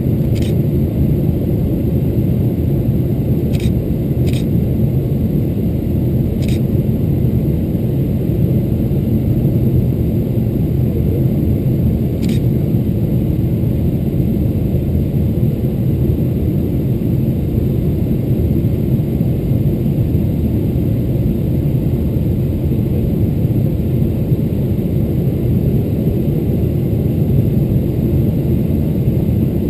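Steady low rumble inside a Boeing 777-300ER's passenger cabin on approach: engine and airflow noise, with a few faint clicks.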